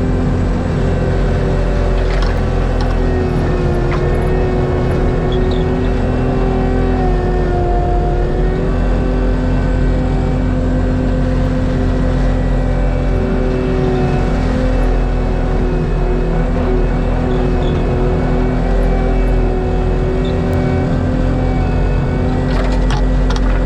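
ASV RT-120F track loader's diesel engine running steadily at high throttle, driving a Fecon Bullhog forestry mulcher head: a constant loud drone with a steady whining tone that wavers slightly.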